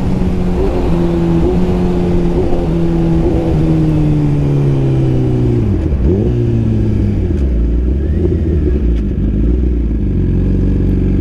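Suzuki GSX-R1000R inline-four running through a Brocks full exhaust while the bike is ridden. The engine note holds fairly steady with small shifts in pitch, dips sharply and comes back about six seconds in, then falls away as the bike slows and settles to a low steady note near the end.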